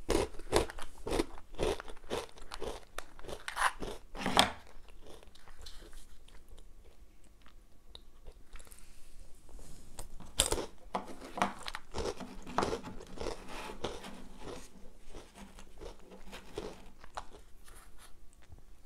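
Crunching and chewing of Nutella & GO! breadsticks dipped in chocolate hazelnut spread: clusters of crisp crunches, thickest in the first four or five seconds and again from about ten seconds in, with quieter chewing between.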